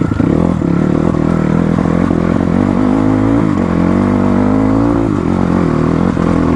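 Motorcycle engine running under way on a rough track, its revs rising and falling, with dips in engine speed about three and a half and five seconds in.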